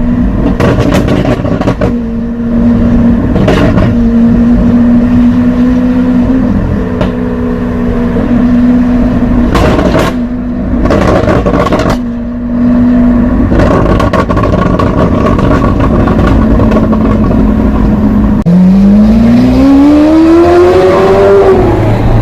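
Lamborghini Aventador SV's 6.5-litre V12 through a Capristo exhaust, holding a steady note broken by several sharp cracks. About eighteen seconds in it accelerates, the pitch rising for about three seconds, then falling just before the end.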